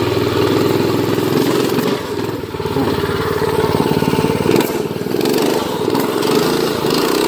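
Predator 212cc single-cylinder four-stroke engine of a Doodlebug minibike running under throttle while riding, its pitch rising and falling with the throttle, with a brief dip about two and a half seconds in.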